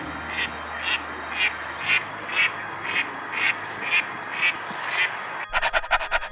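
A duck quacking over and over, about two quacks a second, in an even rhythm. Near the end it cuts abruptly to a fast, even pulsing sound.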